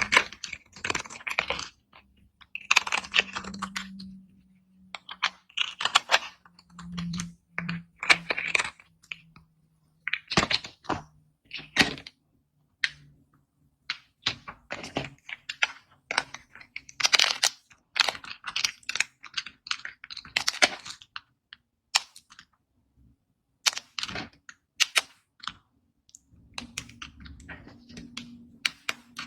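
Knife cutting into dry bar soap: runs of crisp crackling crunches, each cut lasting about a second, with short pauses between cuts.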